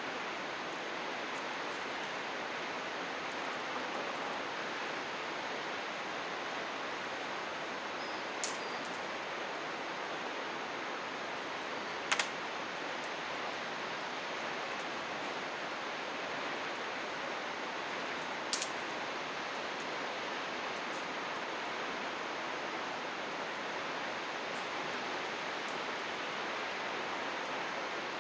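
Steady rush of running water from a mountain stream, with a few short sharp clicks standing out over it, about a third of the way in, near the middle and about two-thirds of the way in.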